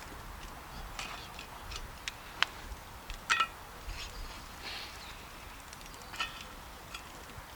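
Campfire crackling with scattered sharp pops, and a short metallic clink about three seconds in.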